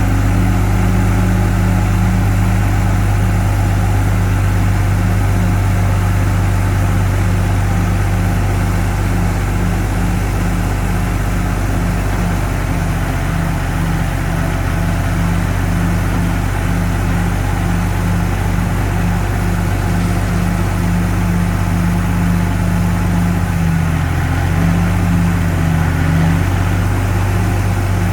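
Heavy diesel engine of earthmoving machinery running steadily with a deep, even hum, its pitch shifting slightly near the end.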